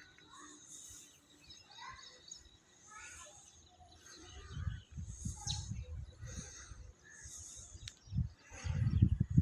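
Birds chirping in short repeated calls, about one call a second. Low rumbling noise comes in about halfway and swells near the end, where it is loudest.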